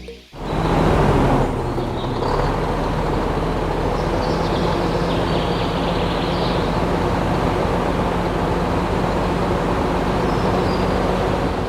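An engine running steadily, a little louder in the first second or so.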